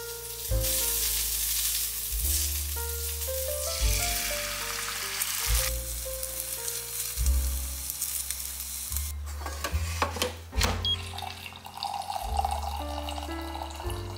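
Eggs sizzling as they fry in a cast iron pan, a steady hiss for about the first nine seconds, over background music with a stepped bass line. A few sharp clicks follow around ten seconds in, then coffee pouring into a ceramic mug near the end.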